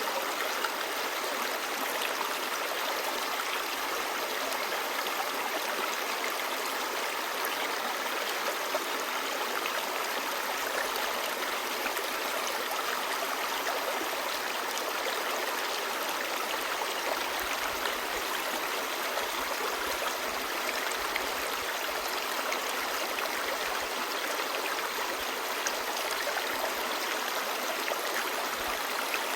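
Shallow clear stream babbling over stones, a steady rush of water.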